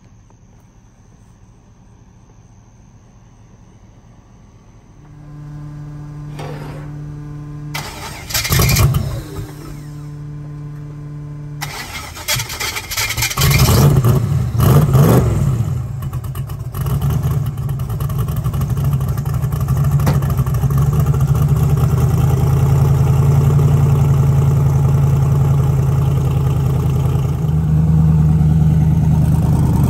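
Twin-turbo Camaro race car's engine being started: a steady hum comes in about five seconds in, then the engine fires around twelve seconds, is blipped a couple of times and settles into a loud, steady idle.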